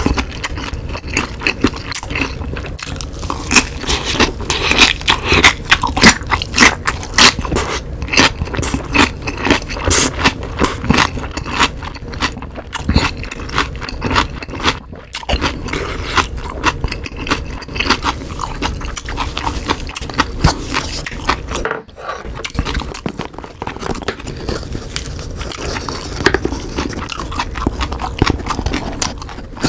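Close-miked chewing of a mouthful of napa cabbage kimchi: a dense run of crunching and wet mouth sounds, with a couple of brief pauses.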